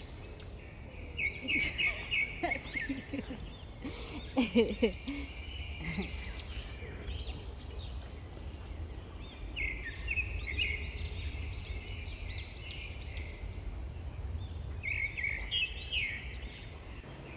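Small birds singing in repeated bursts of quick high chirps, over a steady low outdoor rumble. A short lower-pitched wavering sound comes about four seconds in.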